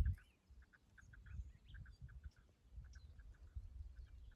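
Faint bird chirping: a rapid series of short, even chirps, a few each second, with a soft low rumble beneath.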